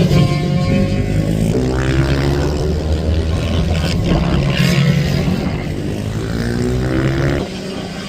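Several racing minibike engines revving hard and changing pitch as the bikes pass and accelerate, the sound dropping away sharply near the end.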